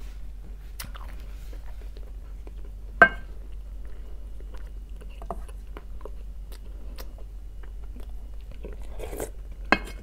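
Close-up eating sounds as someone chews fish from a fish-head soup, with small mouth clicks. A sharp clink comes about three seconds in, and a few spoon knocks against the bowl come near the end.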